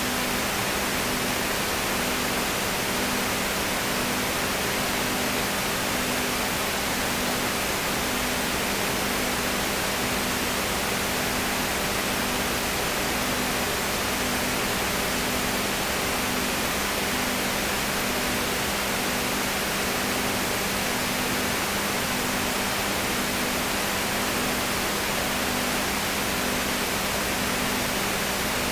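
Steady hiss with a low hum, one tone of which pulses about once a second; no other sound.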